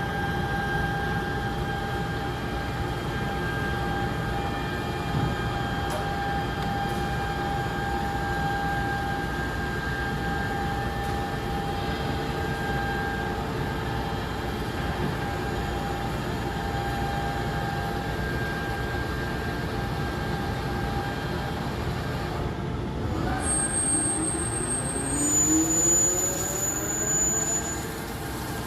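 Dörries Scharmann CNC vertical turning lathe running, a steady mechanical drone with a constant whine. Near the end several rising whines come in, as a drive speeds up.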